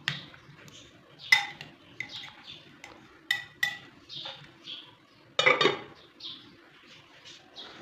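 Dishes and cutlery clinking and knocking during cooking: a series of sharp clinks, several with a short ringing tone, the loudest cluster about five and a half seconds in.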